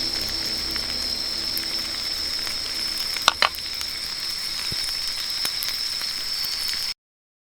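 A steady, high-pitched chorus of night insects chirping, with two sharp clinks about three seconds in. The sound cuts off abruptly just before the end.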